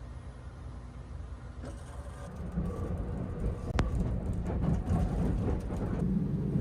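Sleeper train running on the rails, a low rumble with rattling that grows louder about two seconds in, and a sharp click near the middle.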